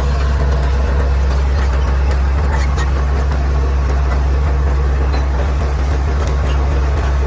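Caterpillar D6R XL bulldozer's diesel engine running steadily with a deep, even drone.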